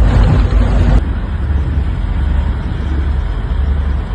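Steady low rumble of a motor vehicle's engine and road noise. The sound changes abruptly about a second in, then carries on a little quieter and just as steady.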